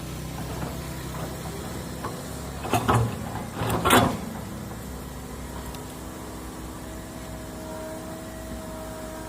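Excavator's diesel engine running steadily. Two loud clattering knocks come about a second apart, a few seconds in, as the bucket works the load. Near the end a faint steady whine rises over the engine.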